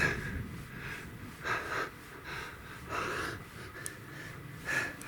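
A man breathing hard while pedalling a bike, with four breaths about a second and a half apart.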